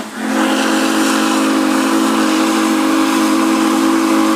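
Steam locomotive whistle blowing one long steady chord, with steam hissing under it.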